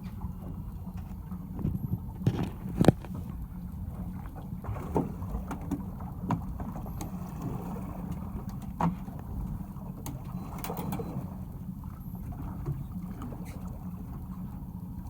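Fishing boat's engine running with a steady low hum, with scattered knocks and clacks on board, the loudest about three seconds in.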